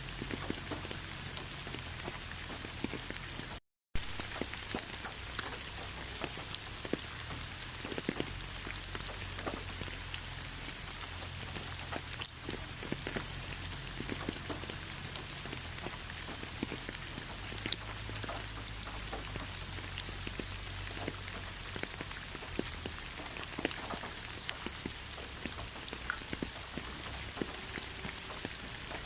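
Steady rain falling, with many individual drops striking close by as sharp ticks over an even hiss. The sound cuts out completely for a moment about four seconds in, then resumes.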